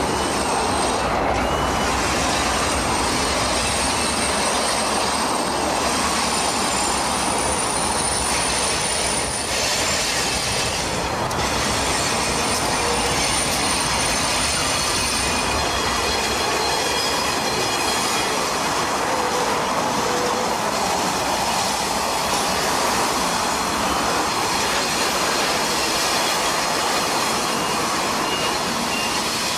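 Freight train of GE diesel-electric locomotives and covered hopper cars rolling around a curve, with steady high-pitched wheel-flange squeal over a continuous rolling roar. The low engine rumble of the last locomotive fades about halfway through as the hopper cars follow.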